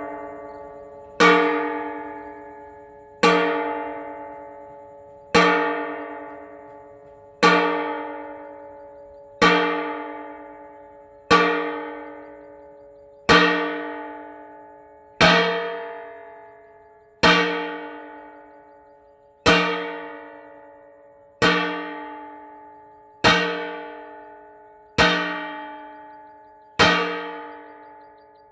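A metal cooking pot struck about every two seconds, each hit ringing with several clear tones that fade before the next, as a bird scarer over a rice paddy.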